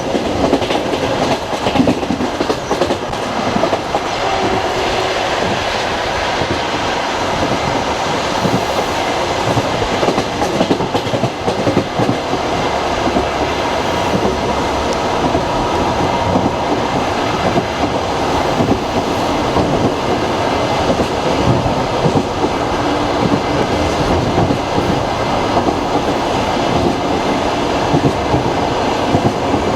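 Passenger train in motion heard from inside a carriage: continuous rumble of the running gear with the clickety-clack of wheels over rail joints.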